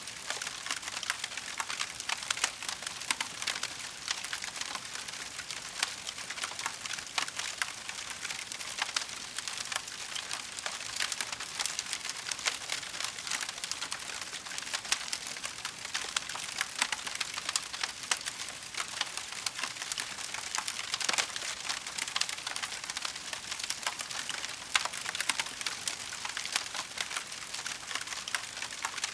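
Burning wood fire crackling steadily: a dense run of small crackles with scattered louder pops and snaps.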